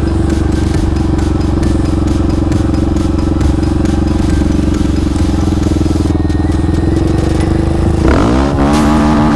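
Yamaha Raptor 700 ATV's big-bore single-cylinder engine running at a steady pitch, then revving up and down about eight seconds in.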